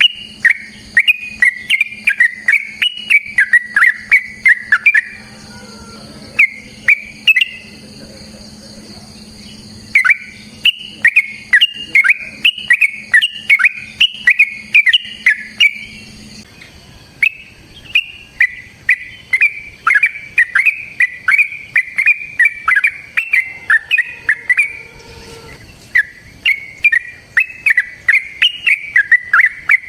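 Yellow-vented bulbul (trucukan) singing its long rapid 'ropel' song: loud strings of quick bubbly notes, in phrases of a few seconds broken by short pauses.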